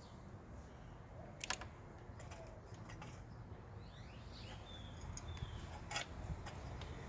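A few light clicks and taps of a socket on an extension being fitted to an EGR valve bolt, the two sharpest about a second and a half in and near the end. A bird chirps briefly in the middle.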